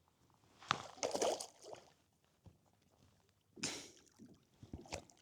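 Water splashing and sloshing at the side of a kayak in irregular bursts while a hooked redfish is on the line, with a few sharp clicks near the end.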